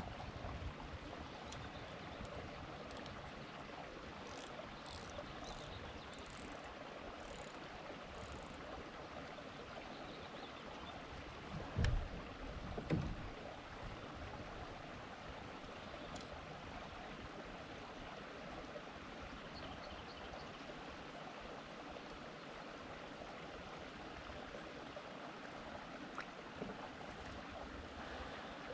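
Steady sound of water around a kayak, with two dull thumps about twelve and thirteen seconds in and a few faint ticks earlier on.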